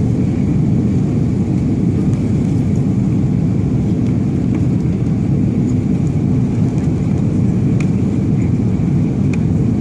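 Steady airliner cabin noise: an even, loud rumble of the engines and rushing air, heard from inside the passenger cabin during the descent toward landing.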